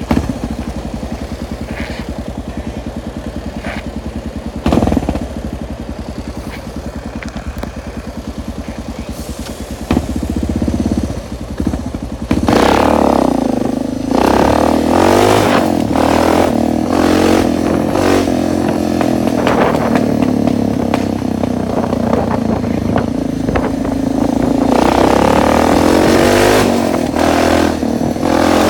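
Suzuki DR650's single-cylinder four-stroke engine running with an even, rapid pulse, then from about halfway getting louder as it revs, its pitch rising and falling repeatedly.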